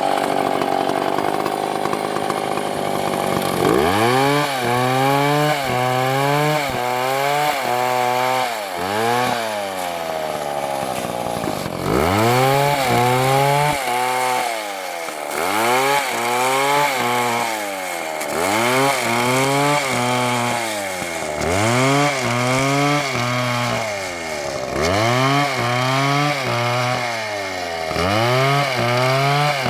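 Large MS720 chainsaw cutting into a big tree trunk. It runs at a steady high pitch for the first few seconds, then its engine speed rises and sags over and over, about once a second in runs of several, as the chain bites and the saw is worked back and forth in the cut.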